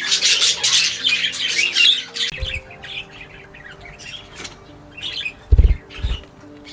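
Aviary budgerigars and finches chirping and chattering, densely at first and then in sparser calls, over soft background music. A few short low thumps come about two and a half and five and a half seconds in, the later ones the loudest sound here.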